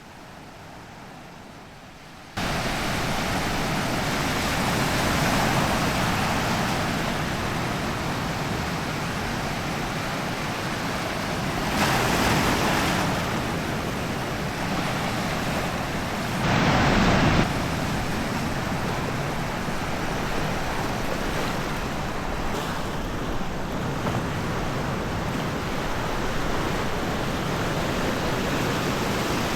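Waves breaking and washing onto a sandy beach: a steady rush of surf that swells as each wave comes in, with a short louder surge about seventeen seconds in. It is fainter for the first two seconds, then jumps up suddenly.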